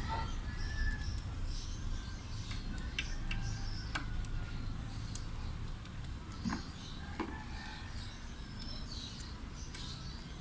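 Occasional small metal clicks as an Allen key works the bolts of a bicycle's rear disc brake caliper, over a steady low rumble and faint bird chirps.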